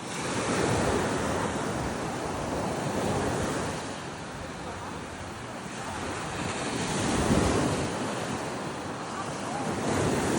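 Ocean surf breaking and washing up the beach, swelling and ebbing several times, with wind buffeting the microphone.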